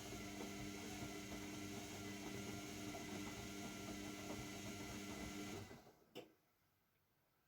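AEG Lavamat W 1450 washing machine's motor humming steadily during the wash. It cuts off about six seconds in and is followed by a single sharp click.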